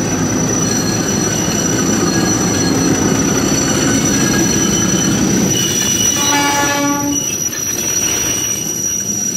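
Diesel locomotive and its passenger coaches rolling slowly along the platform with a steady rumble, over a thin high squeal from the wheels. A short train horn blast sounds about two-thirds of the way through.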